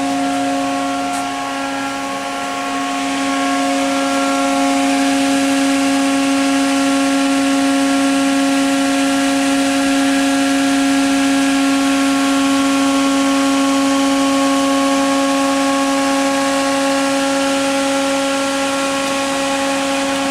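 Powered-up Haas VF-2YT vertical machining center humming steadily at its electrical cabinet: a constant-pitch hum with an airy hiss, getting a little louder about three seconds in.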